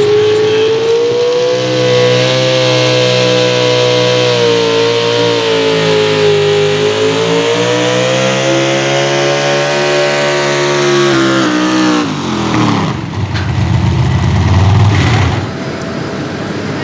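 A competition pulling vehicle's engine at full throttle under load. Its pitch wavers down and back up for about eleven seconds, then falls sharply as the throttle comes off at the end of the run. A rumbling noise follows for a few seconds.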